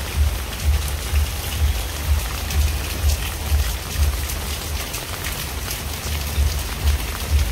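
Steady rain falling, with close drops ticking sharply, under a low, dull thud that repeats about twice a second.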